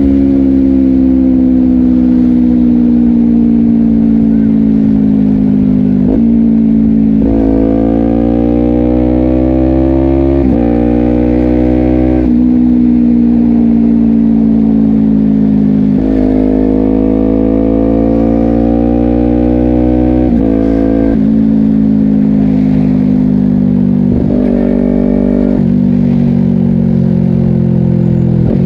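Honda CBR250RR parallel-twin engine through a Yoshimura exhaust, ridden on the road. The engine note climbs under throttle, then drops sharply as quickshifter upshifts go through, several times. Between pulls it sinks slowly as the bike rolls off.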